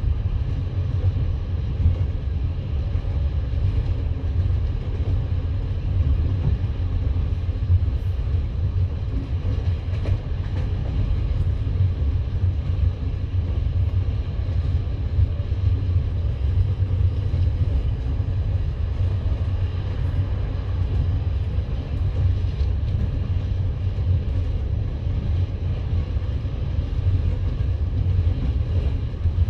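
Passenger train carriage running along the rails, heard from inside the coach: a steady low rumble with an occasional faint click of the wheels.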